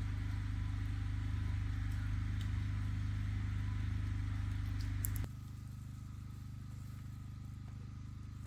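A steady low mechanical hum from a running machine, such as an engine. About five seconds in it drops suddenly to a quieter level and carries on steadily.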